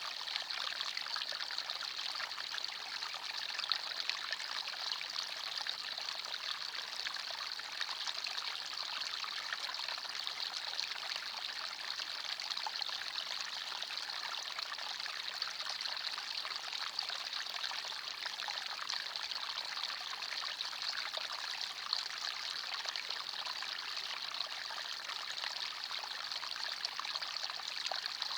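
Forest stream flowing over stones, a steady trickling and splashing of water.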